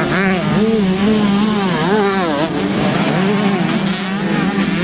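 Two-stroke 125cc motocross bikes racing, engines revving up and down repeatedly as the riders work the throttle.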